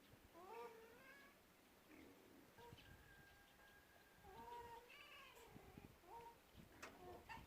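A cat meowing faintly a few times, each call bending in pitch.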